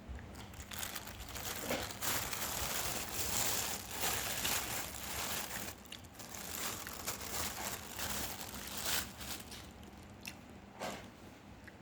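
Plastic packaging, likely a sausage wrapper, crinkled and torn close to the microphone. A busy, crackly rustle with many small snaps goes on for most of the stretch and thins out near the end.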